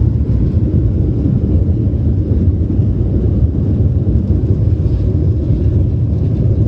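Airliner cabin noise during the takeoff climb: a steady low rumble of the engines and rushing air, heard from inside the cabin.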